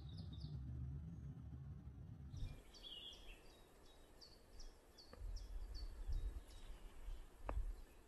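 Low rumble, then a songbird repeating one short high note about three times a second for a few seconds. Low rumbling and a single sharp knock follow near the end.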